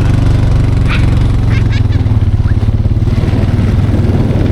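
Four-wheeler (quad) engine running steadily and close, with its exhaust pulsing more noticeably in the second half.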